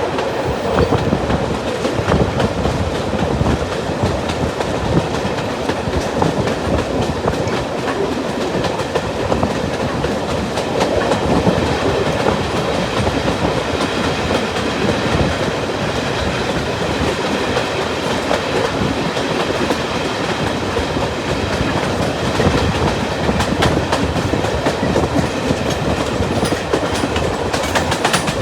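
Diesel-hauled heritage passenger train running steadily along the line, its wheels clattering over the rail joints in a continuous rumble.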